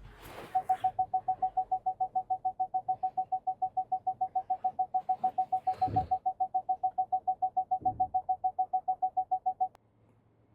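An SUV's parking-sensor alarm beeping rapidly at one steady pitch, about seven beeps a second, the fast rate that warns of an obstacle close by; it cuts off suddenly near the end. Two low thuds sound under it.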